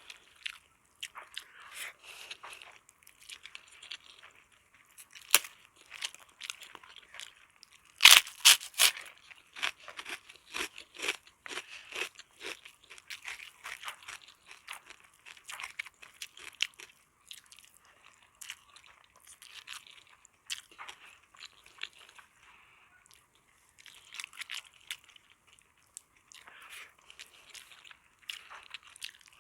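Close-up eating sounds: a person crunching and chewing crisp food, with wet mouth sounds between bites. About eight seconds in comes a loud crisp bite followed by a quick run of crackles.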